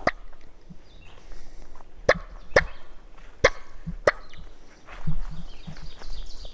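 Footsteps through forest leaf litter, with about five sharp snaps or crunches of sticks underfoot, irregularly spaced, and softer scuffing near the end.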